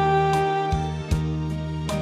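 Saxophone holding one long note over a backing track with a bass line and light percussion ticks.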